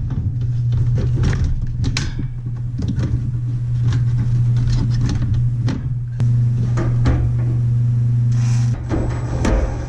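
A split air conditioner running with a steady low hum, while sharp knocks and clatter of parts being handled come and go on top. A second, higher hum joins about six seconds in and stops near nine seconds.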